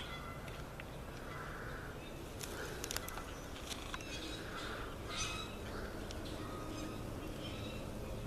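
Geese honking on and off, fairly faint, over an outdoor background, with a few sharp clicks.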